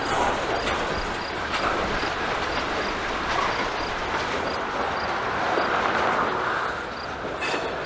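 Freight cars rolling past close by: a tank car, then centerbeam flatcars loaded with wrapped lumber. A steady rumble of steel wheels on rail, with scattered clacks.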